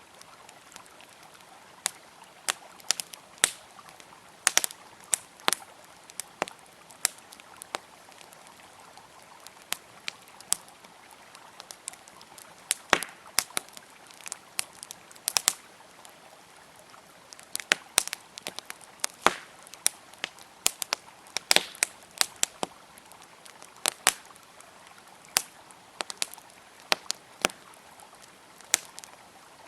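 Wood campfire crackling, with irregular sharp snaps and pops, some in quick clusters, over a faint steady rush of flowing river water.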